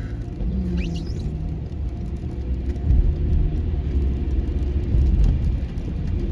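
Low rumble of a car's engine and tyres on a slushy, snow-covered road, heard from inside the car, swelling louder a few seconds in. A brief high squeak rises about a second in.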